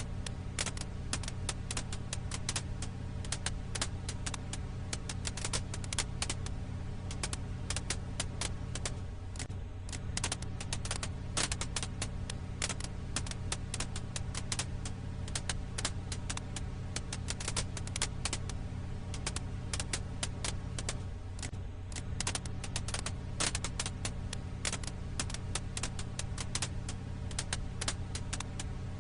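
Crackling firewood: a dense, irregular run of sharp crackles and pops over a steady low hum.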